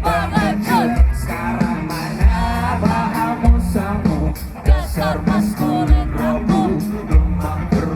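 A rock-style song with a lead vocal over guitar, with a heavy kick drum landing about once every second and a bit.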